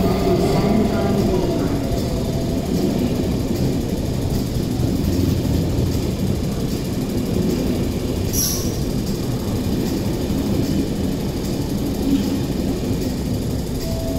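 KTT double-deck intercity train coaches rolling past along the platform at speed: a steady heavy rumble of wheels on rail. A brief high squeal comes about eight seconds in.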